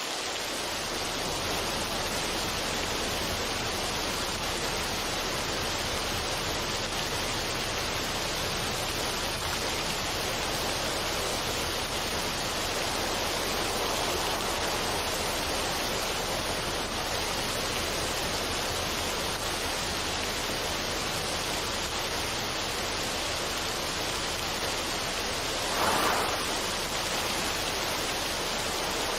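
Steady rushing noise with no music or pitched sound, rising in a brief louder swell about 26 seconds in.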